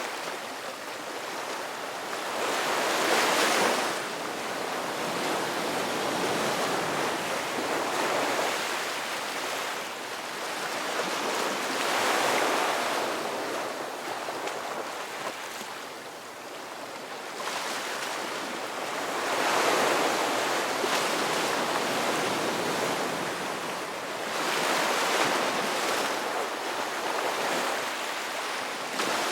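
Ocean waves breaking and washing ashore in a steady rush, swelling into louder surges every several seconds.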